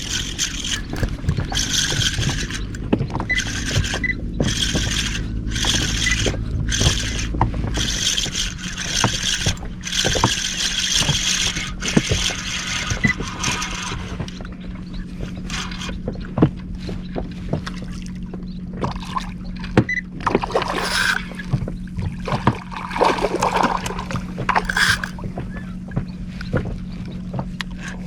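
An inflatable boat's outboard motor running with a steady hum. The deeper rumble drops away about eight seconds in, leaving a lower, even drone, with bursts of hiss over the first half and scattered knocks.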